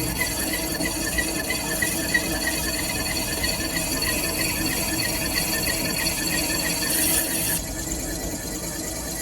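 Machining on a metal lathe, with a rhythmic high squeak about five times a second over a steady hiss. The hiss drops away about seven and a half seconds in while the squeaking goes on.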